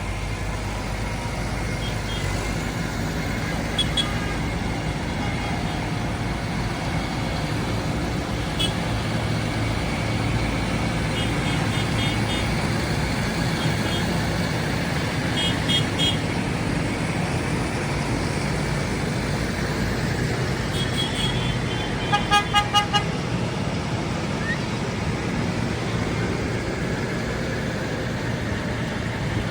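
Tractor engines running steadily as a convoy goes by, with short horn toots now and then, including a quick run of several beeps about three-quarters of the way through.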